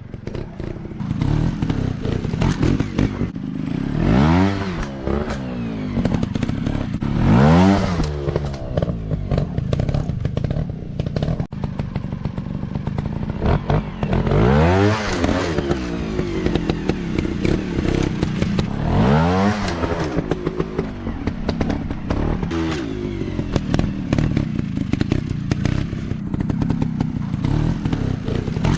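Small 150 cc dirt bike engines revving up and dropping back again and again, with clattering knocks and thuds mixed in.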